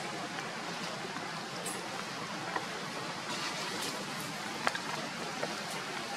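Steady hiss of falling rain, with a few sharp ticks scattered through it, the loudest about two thirds of the way in.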